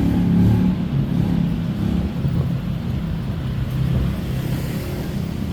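Street traffic: a motor vehicle's engine running close by with a steady low hum, loudest about half a second in and easing off a little after.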